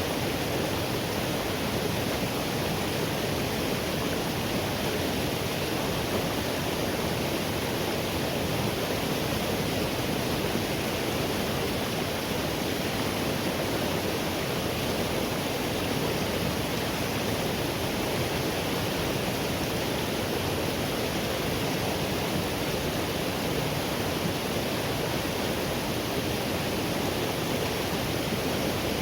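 Forest river flowing: a steady, unbroken rush of water.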